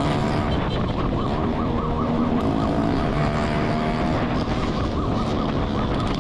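Police siren in a fast yelping warble, about four or five sweeps a second, over the steady running noise of a vehicle engine and road noise during a pursuit.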